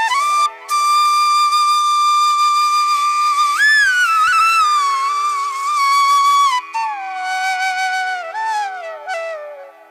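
Background music: a solo flute melody of long held notes with slides between them, over a steady drone.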